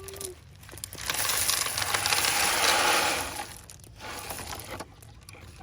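Small stones pouring and rattling out of a toy dump truck's tipped bed, a noisy clattering rush that swells about a second in and dies away after two to three seconds.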